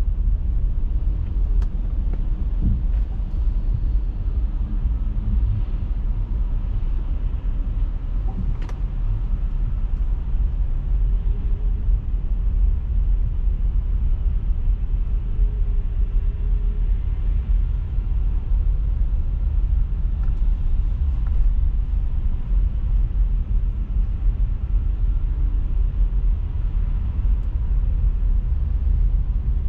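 A car driving: steady low road and engine rumble with faint rising and falling engine tones, and a couple of brief clicks.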